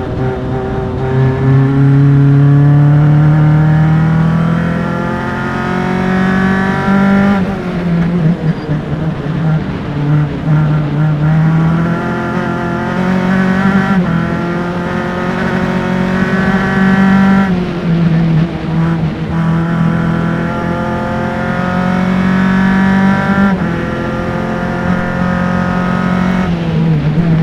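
Formula Enterprise single-seater race car's engine at racing speed: the pitch climbs steadily under full throttle, then drops at each gear change or braking zone, over and over through the corners.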